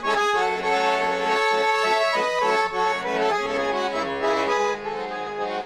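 Russian garmon (button accordion) playing an instrumental interlude of a folk song, sustained chords under a moving melody line.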